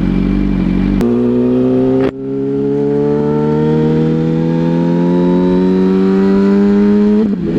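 Yamaha R1's inline-four engine accelerating: two quick upshifts in the first couple of seconds, then revs climbing steadily in one gear for about five seconds, with another shift near the end.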